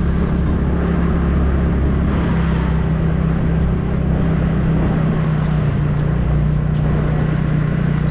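TVS Ntorq scooter's single-cylinder engine running steadily while riding, with a constant hum and rush of road and wind noise.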